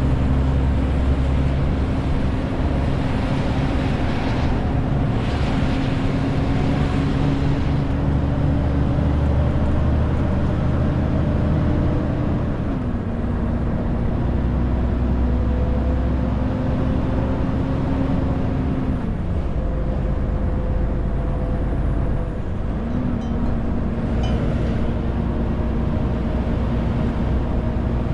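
Renault T520 truck's diesel engine running under load with a 40-tonne load, the engine note steady and dropping in pitch a couple of times, about twelve and nineteen seconds in.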